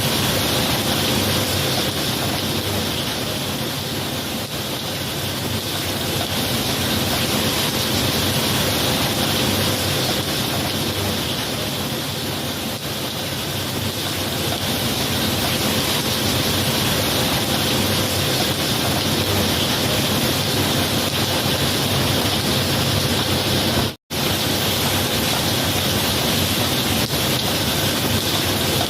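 Steady heavy rain, an even hiss with no thunder heard. It cuts out to silence for an instant near the end.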